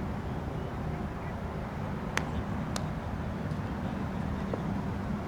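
Steady low outdoor rumble, with two sharp clicks about half a second apart a couple of seconds in.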